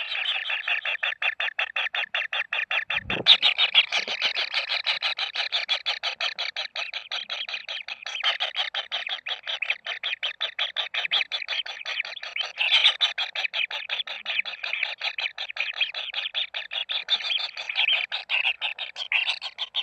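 Kingfisher nestlings begging: a rapid, steady run of short, evenly spaced calls, about six a second, with a dull thump about three seconds in.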